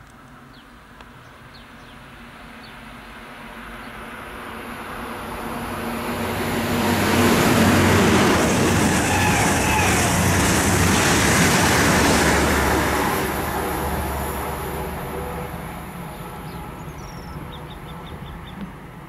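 ICE high-speed train running through the station without stopping: a rushing wheel-and-air noise that swells as it approaches, is loudest for about five seconds as it passes, then fades as it pulls away.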